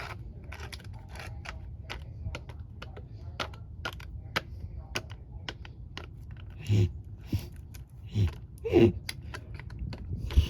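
Plastic model horses tapped against a hard surface in a run of light clicks, a few a second, like hoofbeats. A person's voice makes two short vocal sounds about two-thirds of the way through.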